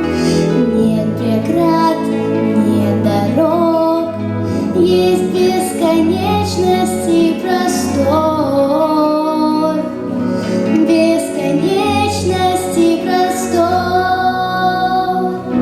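A girl singing a slow, melodic song with held, gliding notes over instrumental accompaniment.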